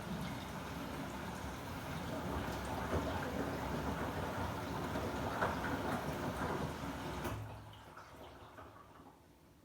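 Samsung WW90J5475FX front-loading washing machine in its rinse cycle: water splashing and sloshing inside the drum. It stops about seven seconds in and dies away over the next two seconds.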